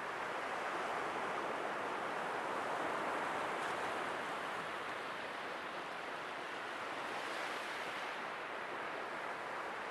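Sea waves washing on the shore: a steady rushing wash that swells gently for the first few seconds and slowly eases after.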